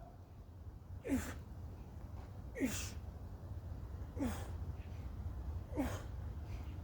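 A man's forceful exhalations, a short grunting breath falling in pitch with each repetition of a bodyweight exercise, four of them about one and a half seconds apart. A low steady background hum runs underneath.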